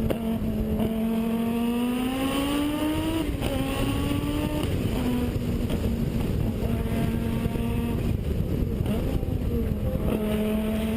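Rally car engine running hard at steady high revs, its pitch creeping up and dropping back in small steps about three and five seconds in, as at gear changes.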